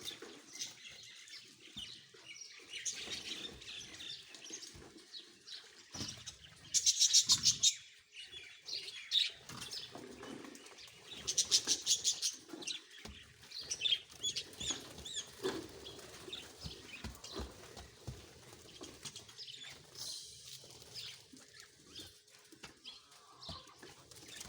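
Parrots chirping over and over, with two short, loud bursts of rapid wing flapping about 7 and 12 seconds in.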